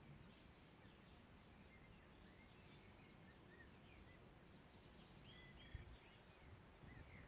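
Faint birdsong: scattered short chirps and whistled calls from several birds, over a low background hum. A brief low thump about six seconds in.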